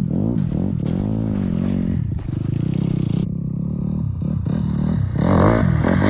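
Dirt bike engine running, its pitch rising and falling with repeated throttle blips; it gets louder near the end.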